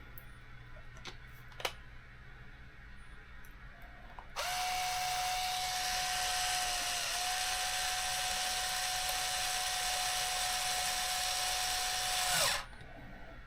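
Small electric drill-driver motor running at a steady whine for about eight seconds, starting about four seconds in and cutting off near the end. Two light clicks come before it.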